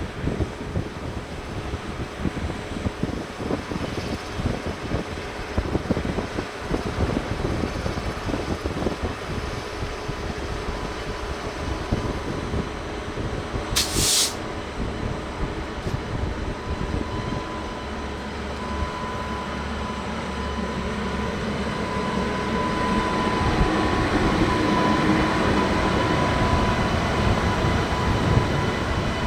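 Indian Railways passenger train with ICF coaches running on the rails: a continuous rumble and rattle. A brief high-pitched burst comes about halfway through, and a thin steady whine joins in the last third as the sound grows louder.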